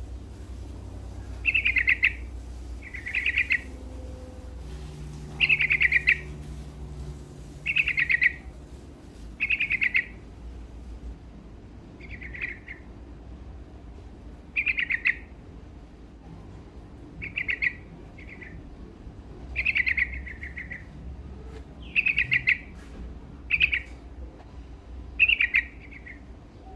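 Yellow-vented bulbul (trucuk) singing in short, bubbly phrases repeated about every one and a half to two seconds, over a faint low hum.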